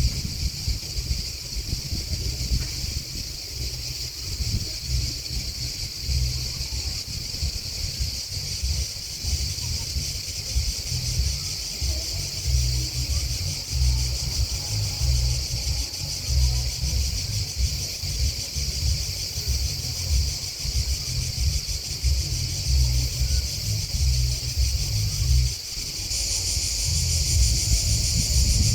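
Steady, dense chorus of chirping grasshoppers and crickets, which grows abruptly louder near the end, over a low, uneven rumble.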